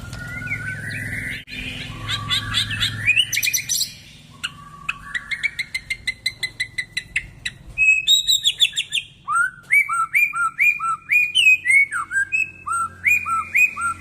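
White-rumped shama singing a loud, varied song. It opens with quick rattling trills, runs into a stretch of fast repeated notes, then from about halfway gives a series of repeated downslurred whistled phrases.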